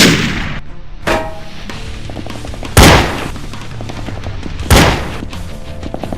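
Three loud gunshots about two seconds apart, each with a fading tail, and a softer bang about a second in, over steady background music.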